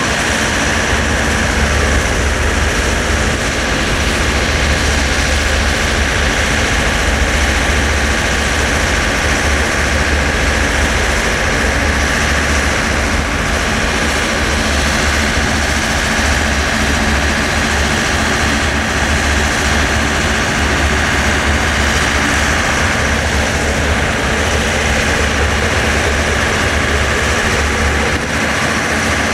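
Heavy engine running steadily with a deep, even rumble.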